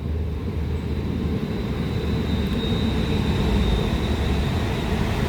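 Class 350 electric multiple unit running at the platform: a steady low rumble with a faint high whine.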